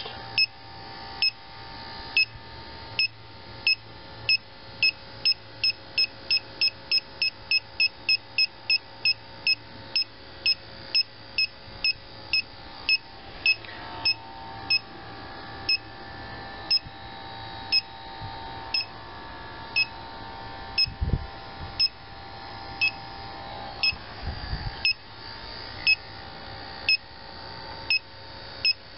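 Inficon TechMate refrigerant leak detector beeping with short, high beeps. They come about one a second, quicken to two or three a second a few seconds in, then slow again to about one a second. A quicker beep rate is the sign of a trace of refrigerant at the probe. Two dull bumps come later on.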